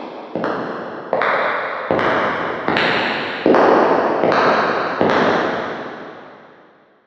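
Footsteps with a long echo after each one, a step about every three-quarters of a second and growing louder; the last step, about five seconds in, rings away to silence.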